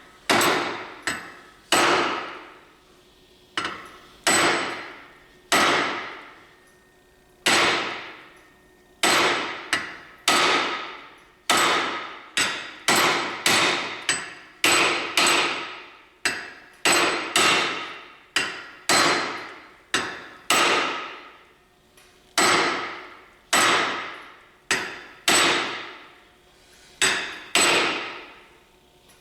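Blacksmith's hand hammer forging steel on an anvil: sharp blows at roughly one a second, some in quick pairs, each ringing out and dying away.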